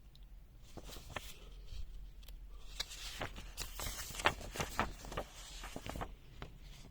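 Handling noise: rustling with a run of light clicks and taps, busiest in the middle of the stretch.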